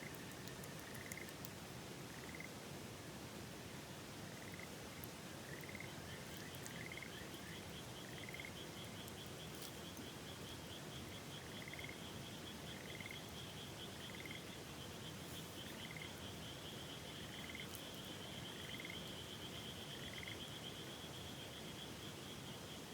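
Frogs calling over the steady rush of a river: short rising chirps repeated about once a second, joined about six seconds in by a fast, higher trill that carries on to the end.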